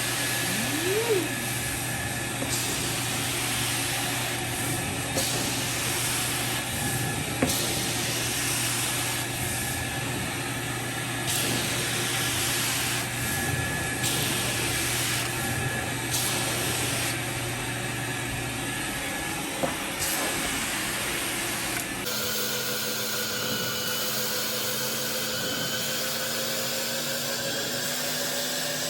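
Carpet extractor's vacuum motor running steadily, its hiss swelling and dropping every second or two. About two-thirds of the way through, the sound changes abruptly to a steadier motor hum whose pitch rises slowly.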